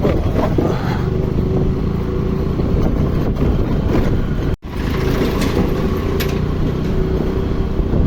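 Honda Grazia scooter running steadily on the move, its engine hum mixed with road noise. The sound cuts out for an instant a little past halfway.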